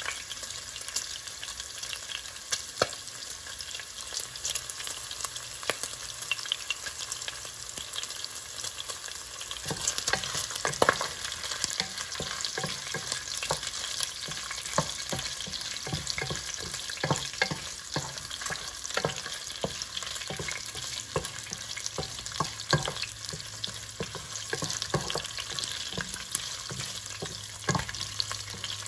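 Sliced pork belly frying in hot oil in a pot as it browns: a steady sizzle with frequent crackles and pops. From about ten seconds in, a wooden spoon stirs the pieces, adding scrapes and light knocks against the pot.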